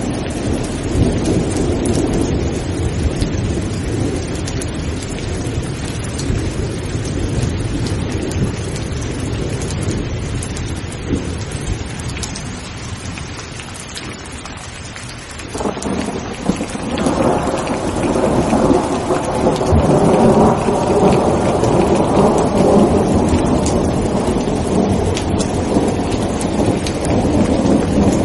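Steady heavy rain with thunder. A low rumble of thunder dies away over the first half, then a new peal breaks suddenly about halfway through and rolls on loudly to the end.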